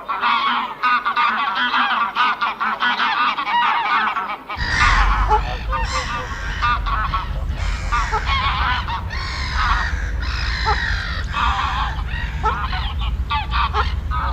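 Geese honking over and over, several calls overlapping; a steady low rumble joins about four and a half seconds in.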